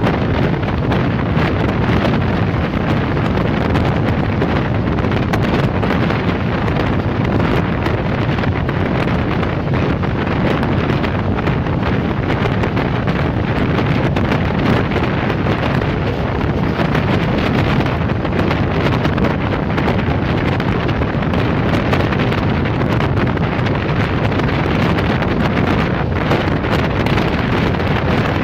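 Steady wind rushing over the microphone held out of a passenger train's window, mixed with the train's running noise at high speed.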